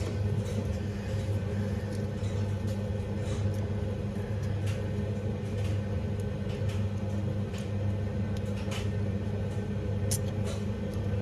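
A steady low electrical hum, with scattered light clicks and taps of small parts being handled.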